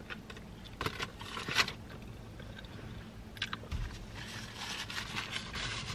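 A person biting into a burrito and chewing it, with a few short crunchy clicks spread through the first three and a half seconds, then softer chewing.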